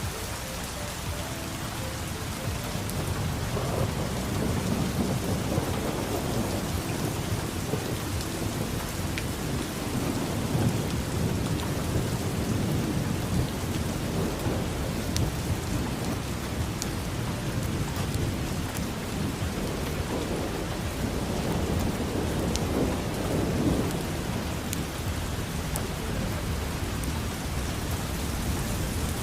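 Steady rain with thunder rolling in a long low rumble that swells a few seconds in and keeps going, with scattered sharp taps of raindrops.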